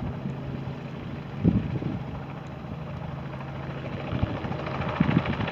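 Robinson R44 helicopter running: a steady low hum of engine and rotor, with short low swells about one and a half seconds in and again near the end.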